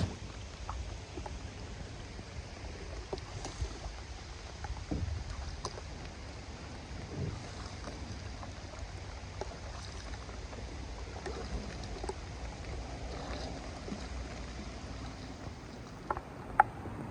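Small boat on a river: water lapping and sloshing around the hull with scattered light knocks, and wind on the microphone; a sharper knock comes near the end.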